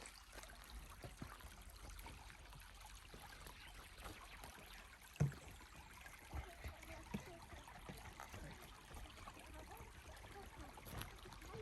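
Small forest stream trickling faintly, with a single sharp thump about five seconds in.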